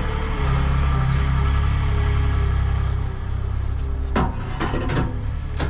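An engine running with a steady low hum that drops away about three seconds in, followed by four or five sharp knocks, like wood or metal being struck.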